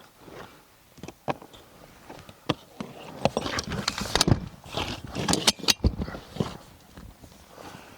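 Rooftop tent being unfolded by hand: scattered knocks and clatters of its frame and ladder, thickening into a busy run of knocks with rustling of the tent fabric in the middle before easing off.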